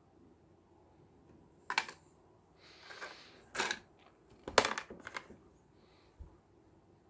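Pieces of rough opal being handled, clicking and knocking against each other and a hard surface. There are a few sharp clicks, a short rustle, a quick cluster of clinks about two-thirds of the way through, and a dull thump near the end.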